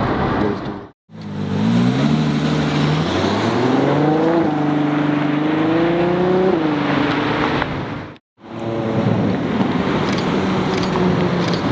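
Ferrari 12 Cilindri's naturally aspirated V12 accelerating hard. Its note rises in two climbs, holds high, then falls away as it eases off. The sound drops out abruptly twice for a moment.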